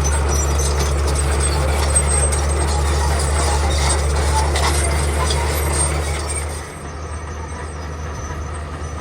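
Heavy diesel earthmoving machinery running steadily, with clanking and scraping over a low engine drone. The engine eases off about two-thirds of the way through.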